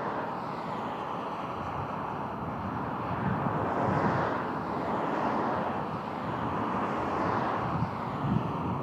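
Aircraft engine noise from a passing plane, a steady rush, with gusts of wind buffeting the microphone now and then.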